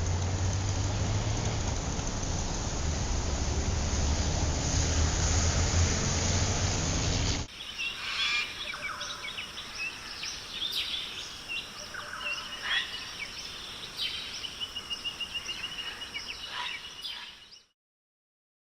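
A steady rushing noise with a low hum that cuts off abruptly after about seven seconds. It is followed by birds chirping, with a rapid trill near the end, before the sound stops suddenly.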